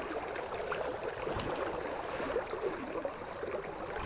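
River water running and gurgling steadily, with one brief click about a second and a half in.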